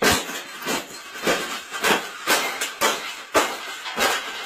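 A wire bird cage being bent and folded up, its metal creaking and clanking in strokes about twice a second.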